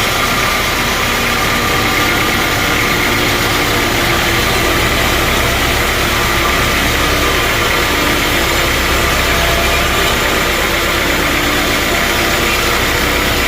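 Sawmill machinery running steadily: a loud, even engine-driven drone and noise that never stops or changes sharply.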